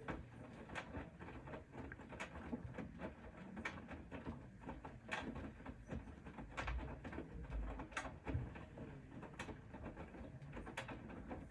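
Bosch Serie 4 front-loading washing machine tumbling laundry in water during the early wash phase: a low rumble of the turning drum with irregular clicks and knocks.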